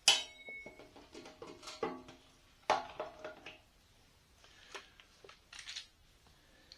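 Small fuel-line adapter fittings being handled: a sharp click with a brief ring at the start, then scattered light clicks and rattles.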